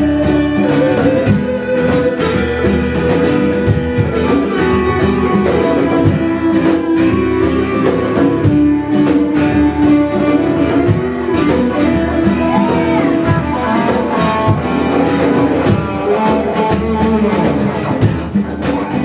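Live band playing an instrumental passage of an original song: strummed guitar and tambourine under a held melody line.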